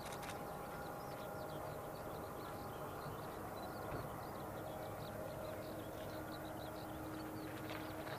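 Jet airliner engines running at a distance, a steady rushing hum with a whine whose pitch steps down and grows stronger in the second half, while small birds chirp.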